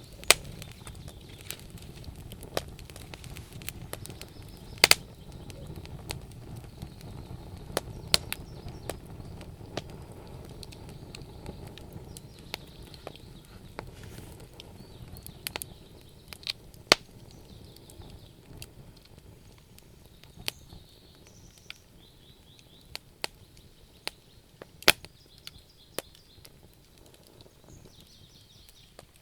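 Wood fire crackling, with a low rumble of burning and sharp pops of wood every second or so, a few of them much louder than the rest. The rumble eases off about halfway through.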